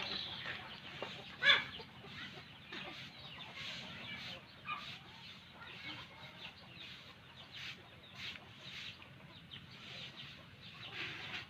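Crow chicks giving short, harsh begging calls over and over, with one louder call about one and a half seconds in.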